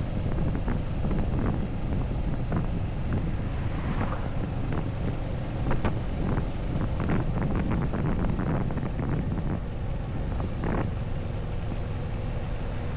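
Wind rushing and buffeting over the camera's microphone on a moving Moto Morini 6½ Scrambler motorcycle, with a steady low rumble of engine and road noise underneath.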